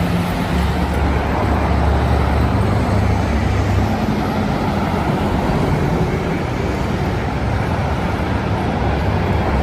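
Road traffic: a steady wash of vehicle engine and tyre noise, with a low engine hum strongest in the first few seconds.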